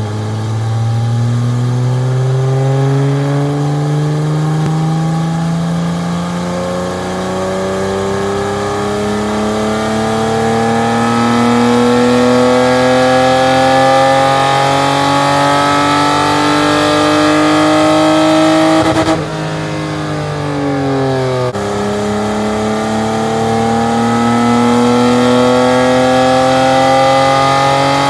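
BMW E30 Spec E30 race car's engine pulling at full throttle on a chassis dyno, its note climbing slowly and steadily through the revs under the rollers' load. About three-quarters of the way through the note sags, drops sharply, then climbs slowly again in a second pull.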